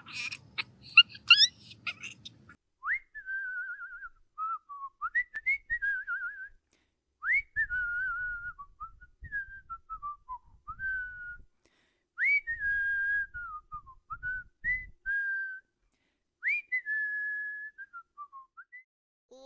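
A whistled tune: a single clear tone in several short phrases, each opening with a quick upward swoop and then wavering up and down, with brief pauses between them.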